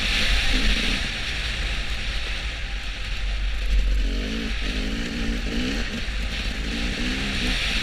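Motor vehicle travelling on the road: a steady rumble and rushing hiss, with an engine note that comes and goes and rises and falls in pitch.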